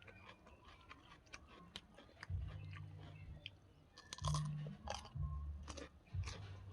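Close-up mouth sounds of a person chewing food, with many small wet clicks and smacks.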